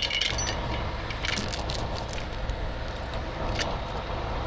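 Tow truck engine running with a steady low rumble, with a few light metallic clinks from the rigging being handled.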